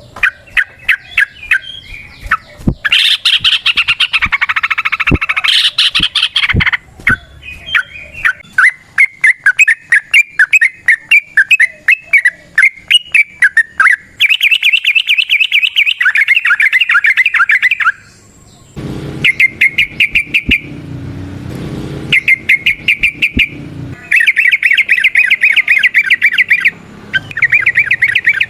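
Yellow-vented bulbul (trucukan) singing long runs of rapid chattering notes, one run after another with short breaks between them. This is the lively long-trill song (ropel panjang) that is played to prompt other bulbuls to sing.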